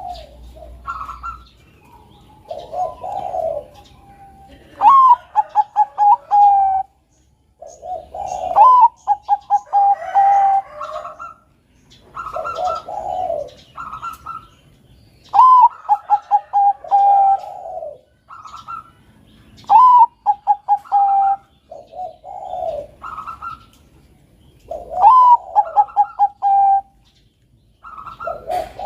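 Bangkok-bred zebra dove (perkutut) cooing in song, loud and repeated. Each phrase opens with a rising note and breaks into a quick stuttering run of short notes, about every four to five seconds, with lower coos between the phrases.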